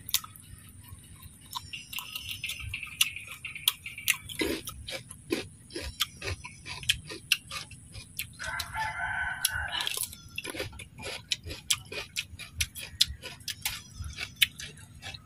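Close chewing and crunching of crispy fried duck, a run of short irregular clicks. A rooster crows once in the background about eight or nine seconds in.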